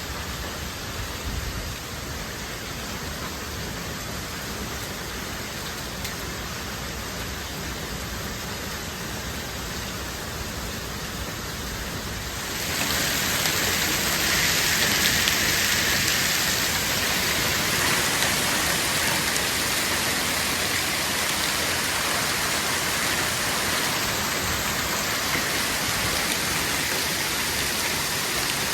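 Hailstorm: hail and rain pelting down in a dense, steady hiss that suddenly grows louder and heavier about halfway through.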